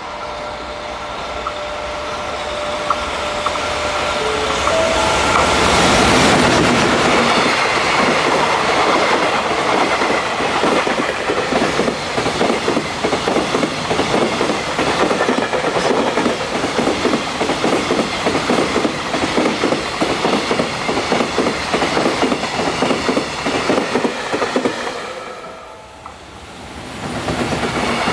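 JR Freight EF210 electric locomotive hauling a high-speed container freight train through a station. Steady tones from the approaching locomotive shift in pitch about four seconds in, and the train is loudest as it passes at about six seconds. A long run of wagons then goes by with rapid clickety-clack over the rail joints, fading out near the end as the last wagon passes.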